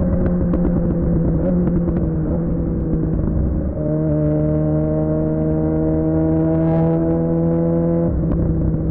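Suzuki GSX-R600 inline-four engine running through a Yoshimura R11 exhaust at fairly steady revs while riding. The note dips and changes briefly about four seconds in, and changes again near the end.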